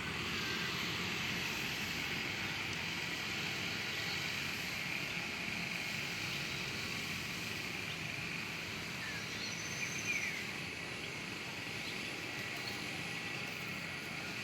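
Steady outdoor ambience with a constant high hiss. A few brief, faint bird chirps come about ten seconds in.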